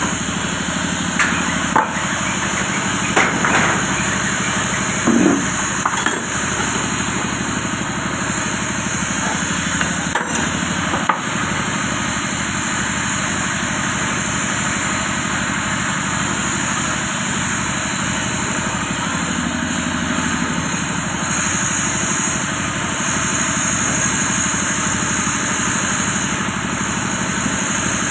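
Several sharp knocks, like hammer taps on metal, during seal work on a water pump motor, scattered over roughly the first ten seconds and then stopping, over a steady noisy hum that runs throughout.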